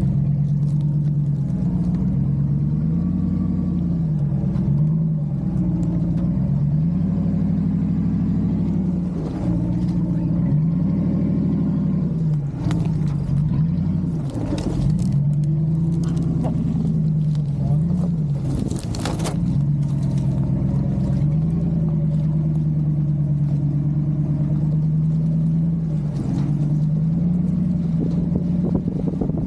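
Pickup truck engine running while the truck is driven slowly over rough dirt, its pitch rising and falling again and again with the throttle. A few sharp clicks and knocks come around the middle.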